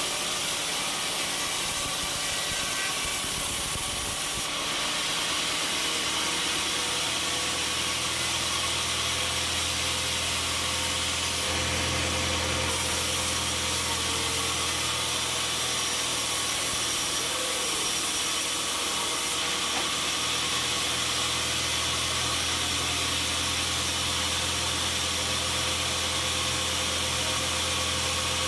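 Sawmill machinery running steadily, with a constant hiss and a low steady hum that comes in about four seconds in.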